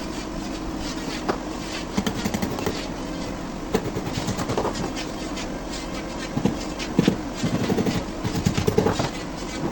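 Bursts of rapid knocking and rattling, the densest in the last third, over a steady low hum.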